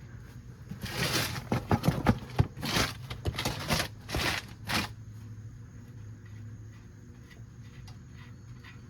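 The 30 mm retaining nut on a 1999 GMC Suburban's front spindle being spun off the threads by hand. It gives a run of quick metal scrapes and clicks for about four seconds, which then stop.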